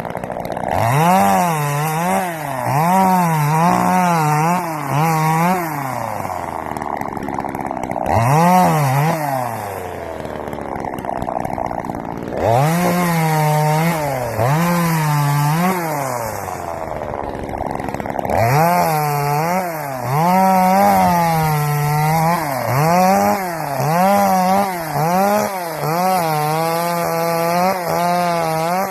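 Chainsaw cutting wood, its pitch rising and dipping about once a second as it works through the cut, dropping off a few times in between.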